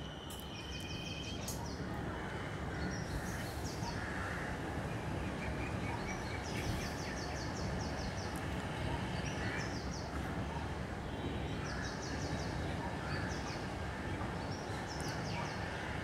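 Birds calling: short runs of rapid high-pitched notes, repeated every few seconds, over a steady low outdoor rumble.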